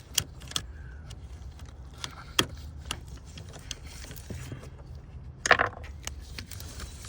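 Scattered sharp clicks and light metallic clinks of pick tools working the plastic quick-connect clips of an EVAP line, with a louder cluster of clicks about five and a half seconds in, over a steady low rumble.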